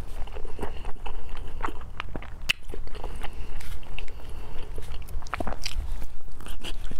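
Close-miked chewing and mouth sounds of someone eating braised pork, with many irregular wet clicks and smacks.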